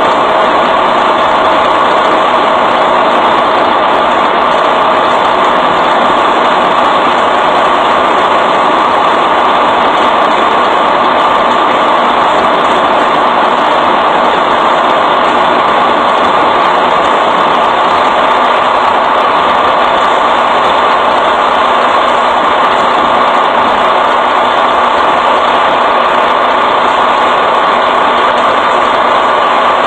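Truck engine idling steadily, a loud, even running noise with no change throughout.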